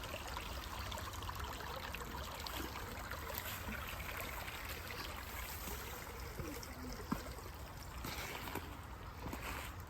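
Faint, steady running water of a small stream, with a single light tap about seven seconds in.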